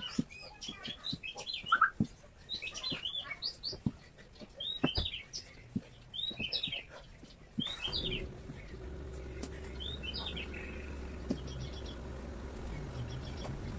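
Small birds chirping, short rising-and-falling calls repeated about once a second, with scattered sharp taps. About eight seconds in, a steady low hum starts and carries on under the last chirps.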